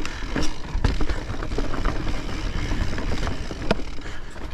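Mountain bike rolling over rocky trail under a rider-mounted camera: a steady low rumble with frequent sharp knocks and rattles as the tyres and frame hit rocks.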